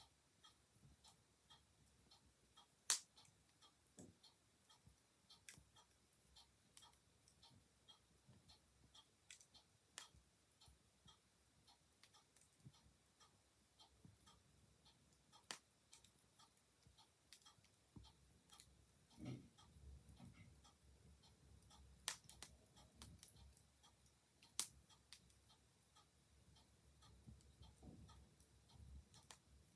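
A clock ticking steadily under a quietly crackling wood fire, with a few louder, sharper pops from the fire and a brief low fluttering of the flames about two-thirds of the way through.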